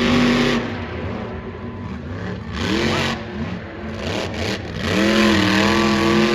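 Monster truck's supercharged, alcohol-burning engine revved in three bursts, each pitch climbing and then holding for about a second, between lower idle rumble. It is a driver blipping the throttle while holding off his run.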